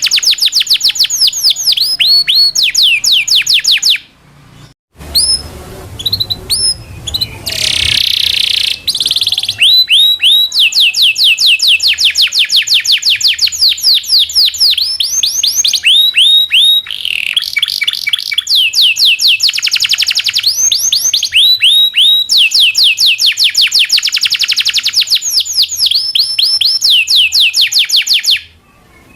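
Domestic canary singing a long, loud song of fast rolling trills: runs of quick, repeated downward-sweeping whistled notes that change speed and pitch from phrase to phrase. The song breaks off briefly about four seconds in and again near the end.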